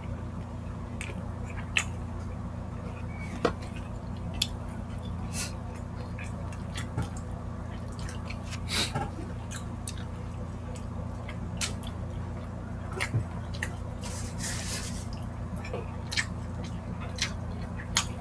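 Close-up mouth sounds of two people eating rice and pork-liver stew by hand: wet chewing, squishes and lip smacks, heard as scattered short clicks over a steady low hum.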